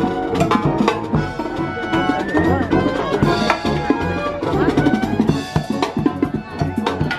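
A band playing an up-tempo number, with a drum kit's snare and bass drum beating under melodic instruments.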